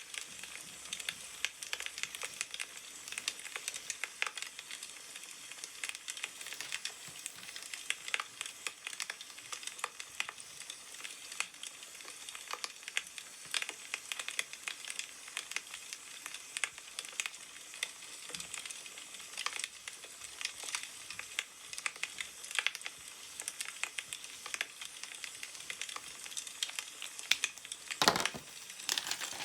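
Wood fire crackling, with a constant stream of small pops and snaps over a soft hiss. A brief louder rustle about a second and a half before the end.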